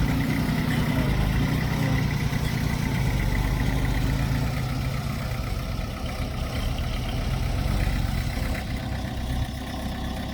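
Diesel engine of heavy earthmoving machinery running steadily, easing off slightly about halfway through.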